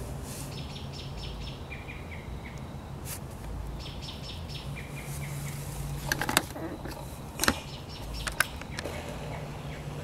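Small birds chirping on and off over a low steady hum, with a few sharp clicks from about six seconds in.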